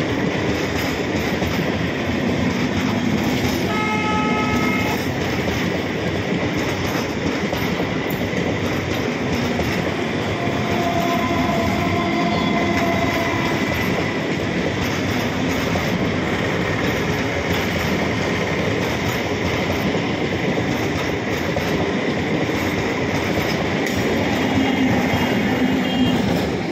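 MEMU passenger train's coaches running past at close range, their wheels clattering steadily over the rail joints. A brief horn toot sounds about four seconds in. The noise swells near the end as the last coach goes by.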